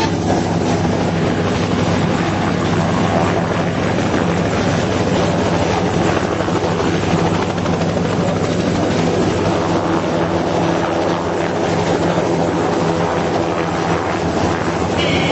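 An aircraft engine and its propeller or rotor run steadily: an even, low drone that holds the same pitch and loudness throughout.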